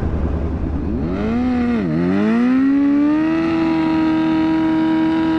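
Sport motorcycle engine revving: its pitch climbs, drops sharply for a moment as if on a gear change, then climbs again and holds a steady high note.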